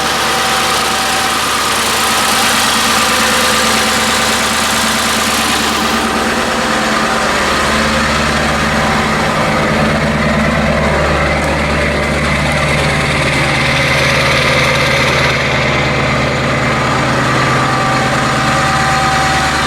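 A 7.3-litre Power Stroke turbo-diesel V8 idling steadily shortly after a cold start, having sat all winter; the high hiss in its sound fades about six seconds in.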